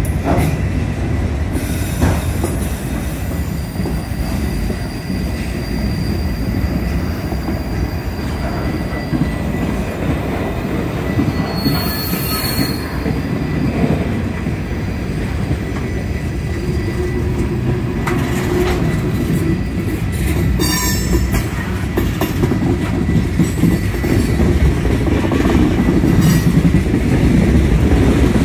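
Train cars rolling past on the track, a steady heavy rumble with brief high wheel squeals about twelve seconds in and again near twenty-one seconds.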